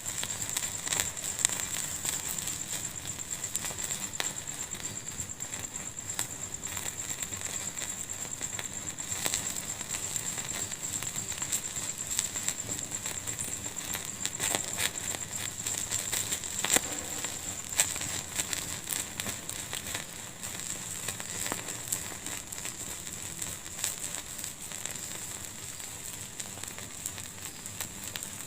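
Wood fire burning in a fireplace, crackling steadily with irregular sharp pops, a few of them louder, over a constant high hiss.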